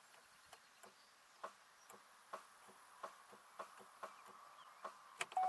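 Faint, irregular light ticking inside the car while the engine fails to restart. Near the end a steady electronic warning chime tone from the 2002 Chevy Malibu sounds briefly.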